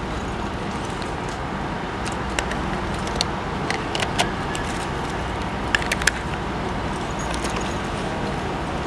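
Steady low machinery hum of a vessel's engines with harbour noise, overlaid by scattered sharp metallic clicks and clinks, bunched into two clusters about a third and two thirds of the way through.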